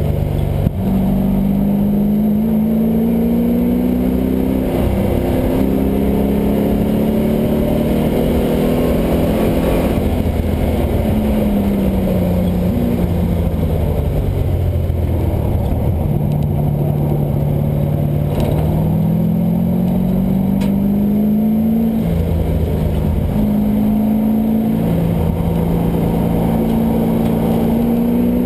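LS1 V8 in a swapped Mazda Miata running hard on track. The engine pitch climbs under acceleration and drops away repeatedly as the car lifts, shifts and brakes through corners.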